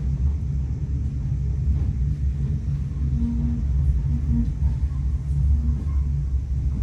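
Railway train on the move, a steady low rumble.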